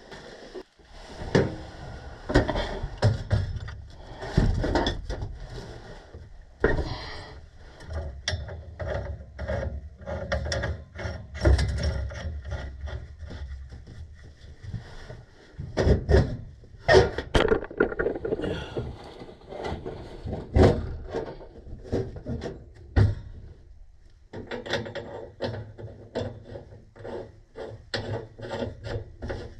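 Hand tools working on the pipe fittings of a furnace gas valve: irregular knocks and clanks of metal with scraping and rubbing between them, busiest a little past halfway.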